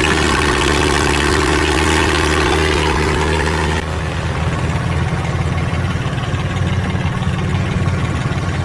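Tractor engine running steadily, driving a homemade threshing machine with a mechanical clatter over the engine drone. About four seconds in the sound shifts abruptly to a heavier, lower engine drone.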